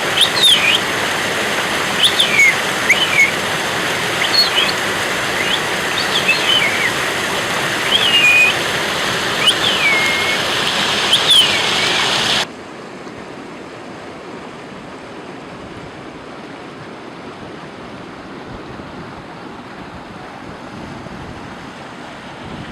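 Rushing water, with high bird chirps sounding over it. About halfway through the sound cuts abruptly to a quieter, steady rush.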